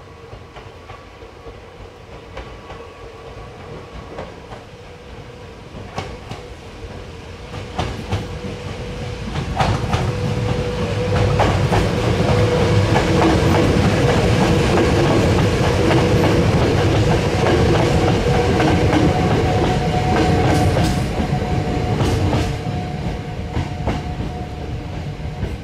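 Hakone Tozan Railway electric train approaching, passing close by and moving away: wheels clacking over the rail joints over a running hum. It builds from about a third of the way in, is loudest in the middle, and fades near the end.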